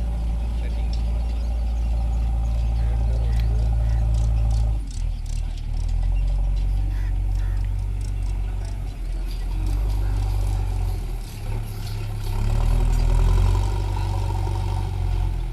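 Mahindra 575 DI tractor's four-cylinder diesel engine running steadily under load with a fully loaded trolley; its note shifts about five seconds in and swells louder near the end.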